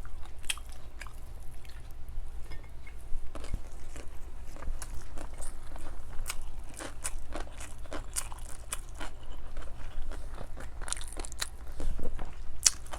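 Close-miked chewing and biting, with many small irregular crunches and clicks, as a person eats fried dried milkfish (daing na bangus).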